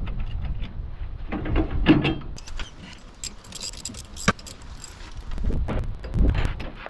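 Metal hand tools and engine parts clinking and knocking at irregular intervals, with one sharp metallic knock about four seconds in.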